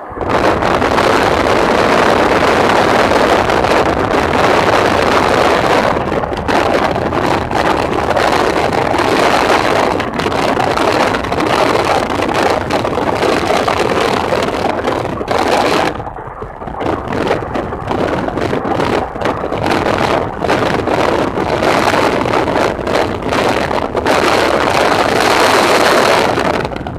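A moving car with loud wind rushing and buffeting against the microphone over road noise, dipping briefly about sixteen seconds in.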